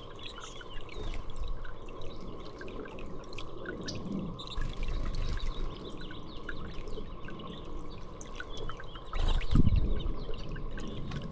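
Water trickling and dripping, likely from a birdbath, with small birds chirping here and there. A low thump about nine and a half seconds in is the loudest sound.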